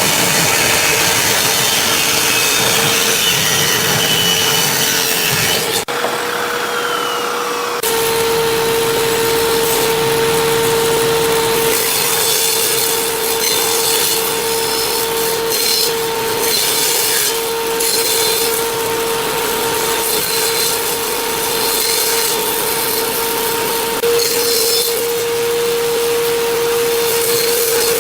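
Electric woodworking power tool running with a steady motor whine while it cuts or sands wood, with an abrupt change about six seconds in.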